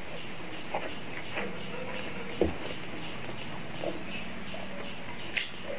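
Close-miked chewing of French fries: small wet mouth sounds and soft crunches, with a sharper knock about two and a half seconds in and a short click near the end.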